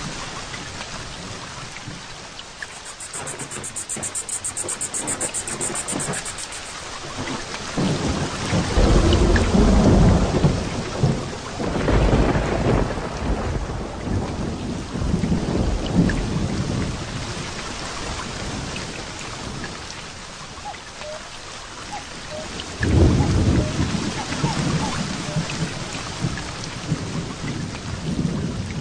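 Heavy rain falling steadily, with rolling thunder. Low rumbles swell up about eight seconds in, again around twelve seconds, and once more a little after twenty-two seconds. A short, high, rapid trill sounds from about three to six seconds in.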